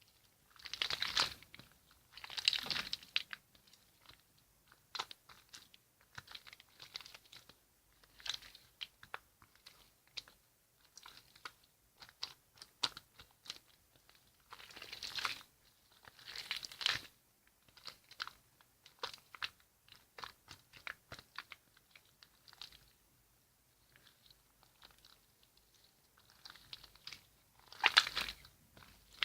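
Slime being squished and worked, making irregular crackling squishes, with louder bursts near the start, around the middle and near the end.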